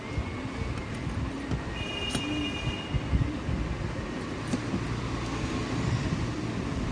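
Low, uneven rumble of background road traffic, with a short high beep about two seconds in.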